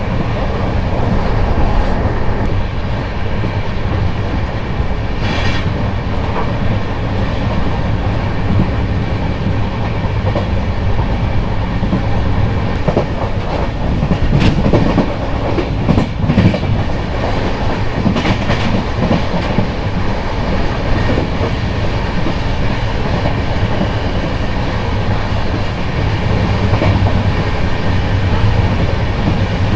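Sainik Express passenger train running at speed, heard from an open coach doorway: a steady rumble of wheels on the rails with rushing air. A few sharper clacks come about halfway through as the wheels pass over joints.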